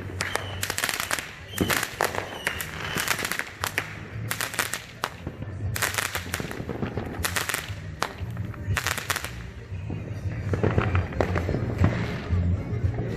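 Fireworks going off in rapid succession: a dense run of sharp cracks and bangs that thins out after about nine seconds.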